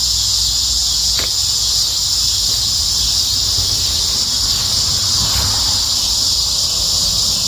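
Steady chorus of insects, a continuous high-pitched buzz that does not let up, over a low rumble.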